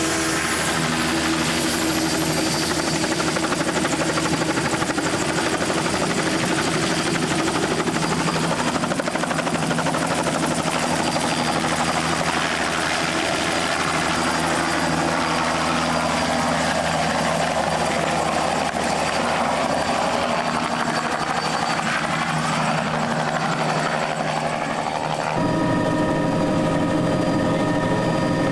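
Helicopter engine and rotors running steadily, recorded on a Video8 camcorder's built-in microphone. About 25 seconds in, the sound switches abruptly to a different steady hum with higher tones, as at a cut in the tape.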